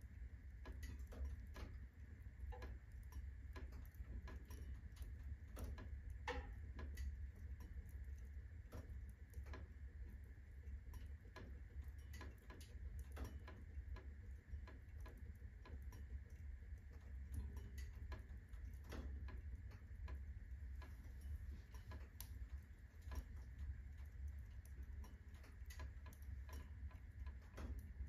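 Firewood burning at full blaze in a fireplace: irregular crackles and pops, several a second, over a low steady rumble.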